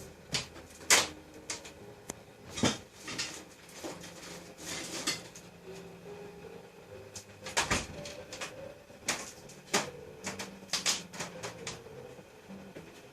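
Irregular knocks, thumps and scuffling of two cats play-fighting and wrestling, with the sharpest knocks about a second in and again just past the middle.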